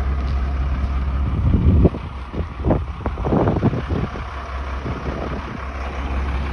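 A heavy vehicle engine running steadily with a low hum. From about one and a half to four seconds in, a run of irregular knocks and scrapes rises over it.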